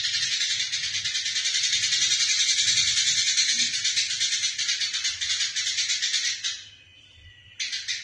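Eurasian tree sparrows chattering: a dense, rapid stream of harsh chirps, the agitated calls of sparrows fighting. It breaks off about six and a half seconds in and starts again about a second later.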